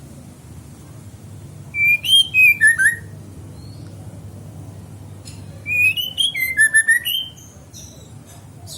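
A young songbird, four months old, singing two short bursts of quick whistled notes that slide up and down, with high chirps mixed in, over a steady low hum.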